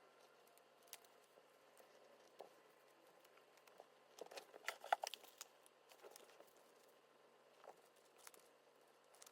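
Faint handling of sticker sheets and paper: scattered soft ticks, then a short run of crinkling, tapping and peeling noises about halfway through.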